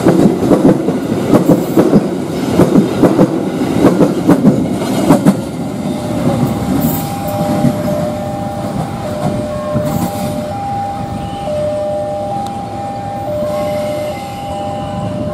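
Container freight train wagons rolling past close by, the wheels clacking rapidly over rail joints. After about five seconds the clatter eases as the last wagon goes by, and a level-crossing warning alarm takes over, sounding two alternating tones, one high and one low, about once a second.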